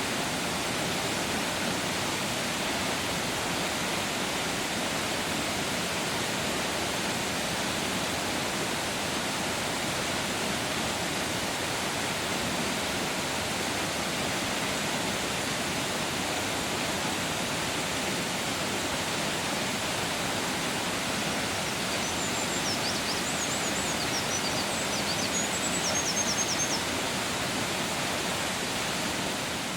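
Waterfall rushing steadily. A small bird's high, rapid notes are heard briefly after about twenty seconds.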